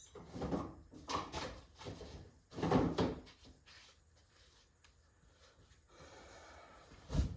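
Hand tools knocking and scraping against metal transmission parts, a handful of short clunks in the first three seconds, then a quieter stretch and one sharp click near the end.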